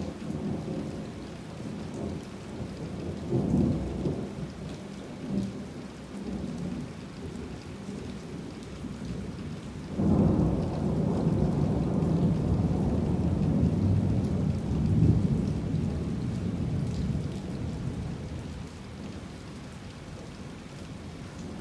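Heavy rain falling steadily, with two rolls of thunder. The first rumbles from the start and peaks about three and a half seconds in. The second, louder one breaks suddenly about ten seconds in and rolls on for several seconds before fading.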